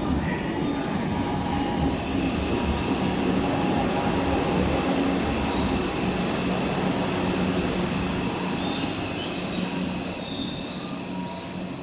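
A Tobu Railway electric train runs along the station platform with a steady rumble. From about eight seconds in, short high-pitched wheel squeals come in, and the rumble eases slightly near the end.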